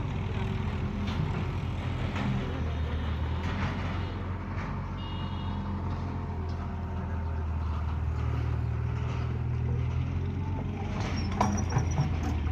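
Heavy diesel engine of a tractor or JCB running steadily, its low drone shifting slightly in pitch as it works. A short high beep sounds about five seconds in, and a few knocks come near the end.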